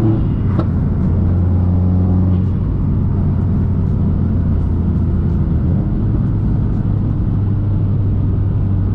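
Turbocharged flat-four engine of a heavily modified Subaru WRX running steadily as the car drives, a low, even drone. There is a short click about half a second in, and the engine note changes about two and a half seconds in.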